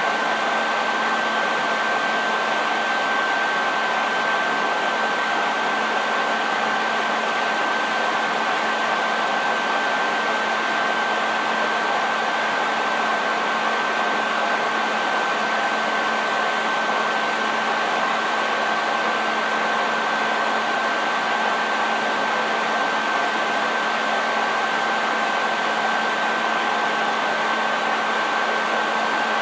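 Electric hair dryer running steadily: a constant whoosh of blown air with a high motor whine held at one pitch and a lower hum beneath it.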